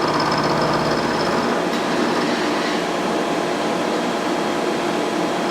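Shop heater running: a loud, steady rushing blower noise. A faint high whine and low hum over it stop about a second and a half in.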